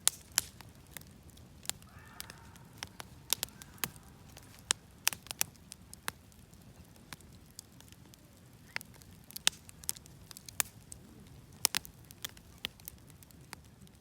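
Wood bonfire crackling: irregular sharp pops and snaps over a low, steady rumble of burning.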